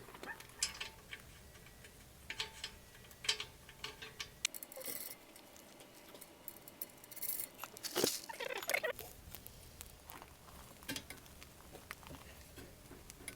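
Scattered metallic clicks, taps and clinks of hand tools and parts while a car's coilover shock absorber is being reassembled and its threaded collar tightened, with a couple of brief scraping hisses partway through and a sharper click about eight seconds in.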